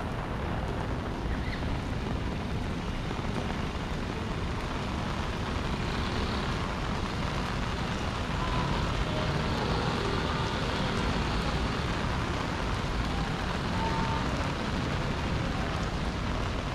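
Steady rain in a city street mixed with the sound of traffic, an even wash of noise that swells slightly partway through.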